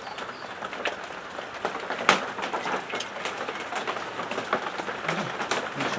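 Rain falling steadily, with single drops tapping sharply and irregularly close by; one louder tap about two seconds in.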